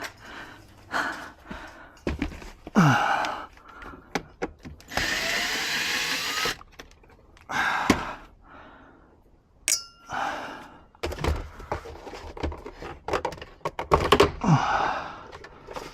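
Tool work on car interior parts: a series of short knocks, clunks and scrapes, with a steady whirring noise lasting about a second and a half midway through.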